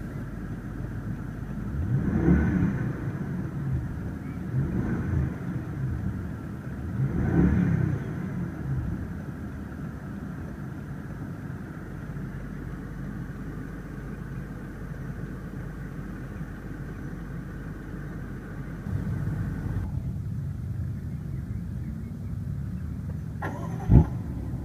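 BMW 650i Gran Coupe's 4.4-litre twin-turbo V8 just after a push-button start: revved three times in the first eight seconds, then idling steadily. A single sharp click near the end.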